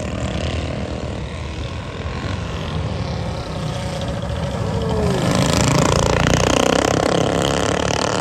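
Motorcycle engine running with wind noise while riding, growing louder about five seconds in.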